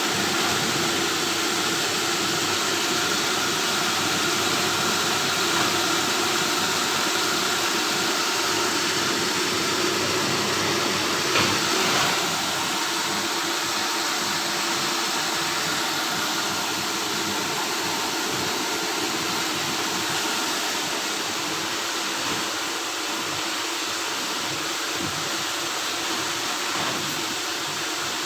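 Industrial machinery running with a steady hum and hiss, with one brief knock partway through.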